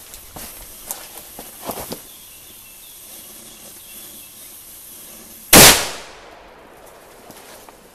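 Zeus Special firecracker with 0.5 g of flash powder going off in a single very loud bang about five and a half seconds in, dying away within half a second. A few faint sharp clicks come in the first two seconds.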